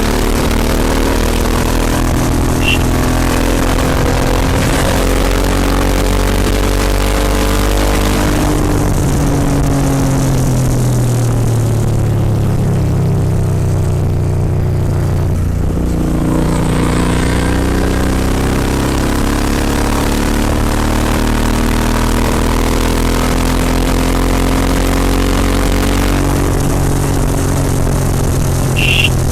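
Royal Enfield Continental GT 650 parallel-twin engine running through aftermarket Red Rooster exhausts while riding. The engine note drops as the bike slows about a third of the way in, then climbs again as it accelerates.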